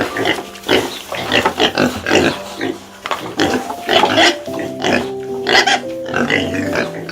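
A pig making short, repeated calls, several a second, over background music with a simple stepping melody that comes forward in the second half.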